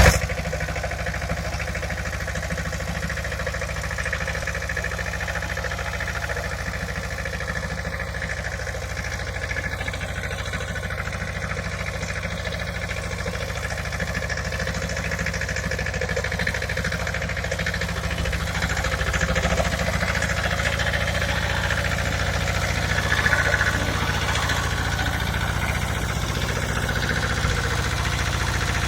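Pasquali tractor engine running steadily at idle, getting a little louder about two-thirds of the way through.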